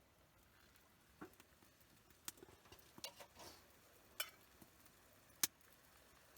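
Faint, scattered sharp clicks and light knocks, a handful of them at uneven intervals, with the loudest single click about five seconds in.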